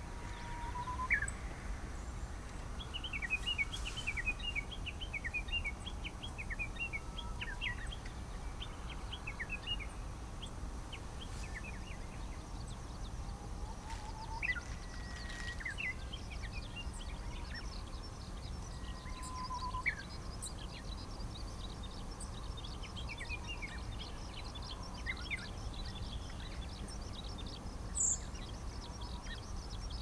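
Small wild birds calling: many short, high chirps in irregular clusters, with a few brief whistled notes, over a steady low background rumble.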